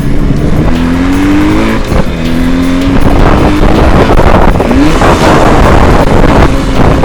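Jawa 638 motorcycle's two-stroke twin engine under way: it revs up, shifts gear about two seconds in, then runs on at a steadier pitch with another brief rise later, over dense road noise.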